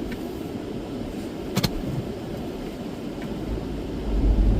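A car driving slowly, its engine and tyre noise a steady low rumble heard from inside the cabin, with one sharp click about a second and a half in.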